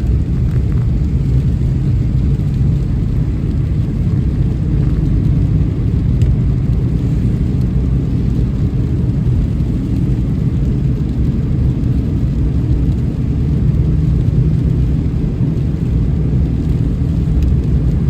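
Steady low rumble of a car driving, even and unbroken, with only faint noise above it.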